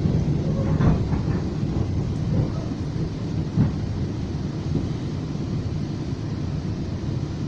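FrontRunner commuter train rumbling steadily along the track, heard from inside a passenger car. A couple of brief knocks come through about one and three and a half seconds in.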